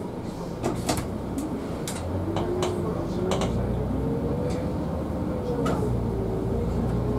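Public transport vehicle running: a steady low hum with a whine that slowly wavers up and down, and scattered sharp clicks and rattles.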